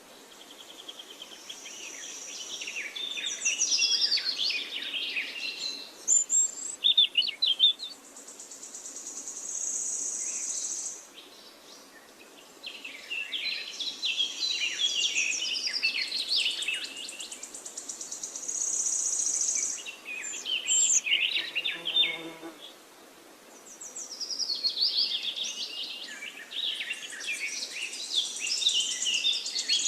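Songbirds singing in repeated bursts of warbling, chirping phrases, with a high steady buzzing note coming and going between them.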